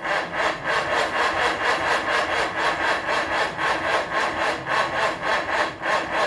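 Farmall Cub Lo-Boy's four-cylinder engine being cranked over by its starter without firing: a steady rhythmic churning of about five compression pulses a second, stopping near the end.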